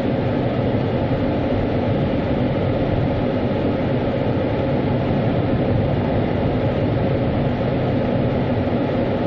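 Automatic car wash machinery heard from inside the car: a steady, loud rush of noise over a low hum, unchanging throughout.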